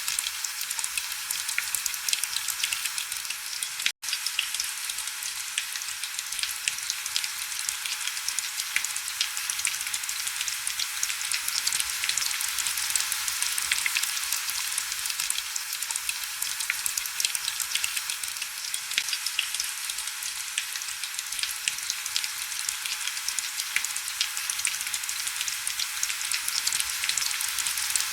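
Steady heavy rain: an even hiss made of countless small drop ticks, with little low rumble. It cuts out for an instant about four seconds in.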